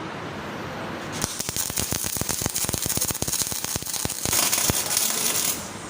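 MIG welding arc on a flat (1G) groove joint during a fill pass, 0.8 mm wire under shielding gas: a dense, rapid crackle with a high hiss. It strikes about a second in and cuts off shortly before the end.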